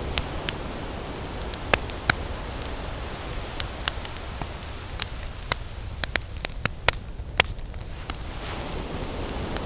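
Campfire crackling, with irregular sharp pops and snaps over a steady rush of surf that swells slightly near the end.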